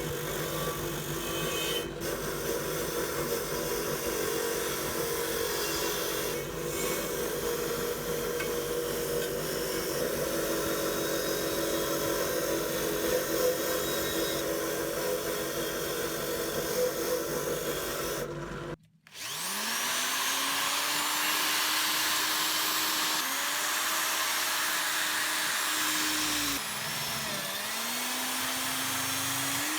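A power tool works steadily with a rubbing, grinding sound, then cuts off suddenly. An electric motor then spins up to a steady whine, its pitch dipping and recovering several times as it takes load.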